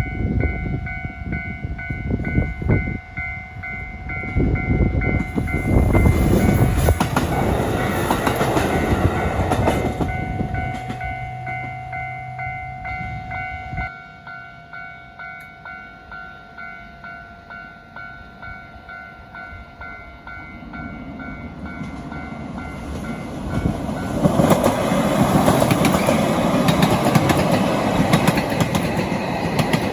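Japanese railway level-crossing alarm ringing steadily while diesel train noise with wheels clattering over rail joints is loud, fades to a quieter stretch where the alarm's regular pulsing is heard, then swells again from about two-thirds of the way in as a train passes.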